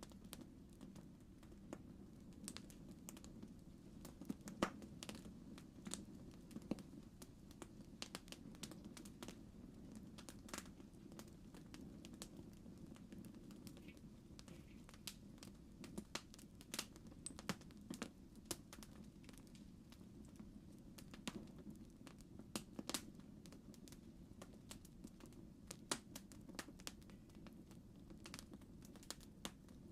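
Campfire crackling: a faint, steady low rumble of burning wood with frequent irregular sharp pops and snaps.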